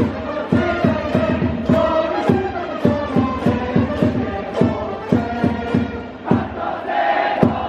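A baseball cheering section chanting together in unison over a steady, driving drum beat, with a sung or played melody carried over it.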